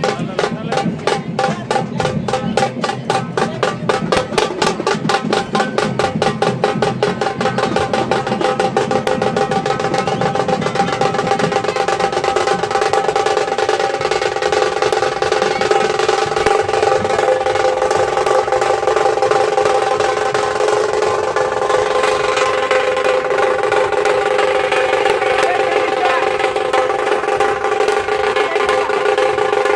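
Nashik dhol drumming: a very fast roll of rapid strokes over the deep beat of the dhols, with steady pitched tones sounding throughout. About twelve seconds in the deep bass drops away and the strokes blur into a continuous roll.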